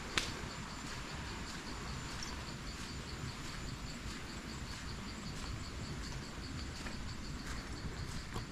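Forest insects chirping in a rapid, even pulse with a thin steady high whine above it, over a low background hiss. A single sharp click comes just after the start.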